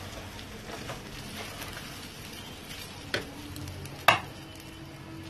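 Bulgur and fine vermicelli toasting in oil in a pan, sizzling while being stirred with a wooden spoon, the stage of frying the grains before the chicken stock goes in. Two sharp knocks about three and four seconds in, the second the loudest.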